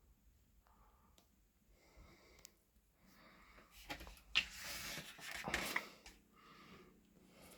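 Paper pages of a guidebook being handled and turned: a rustle of about two seconds with a few sharp crackles, starting about four seconds in.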